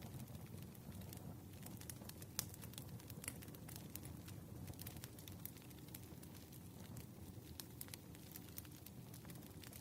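Wood fire burning, with a low steady rumble and frequent small sharp crackles and pops of the logs.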